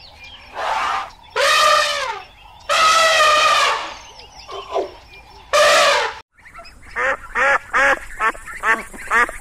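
African elephants trumpeting: a few loud, drawn-out calls of up to a second each over the first six seconds. After a cut, domestic ducks quack in a quick run of short calls, two or three a second.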